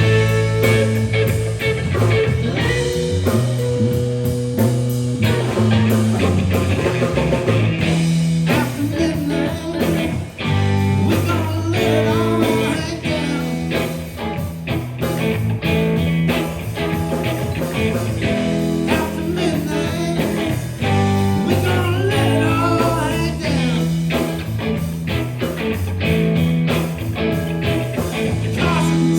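Live blues-rock band playing, with guitar prominent over a steady bass line and a rhythmic beat.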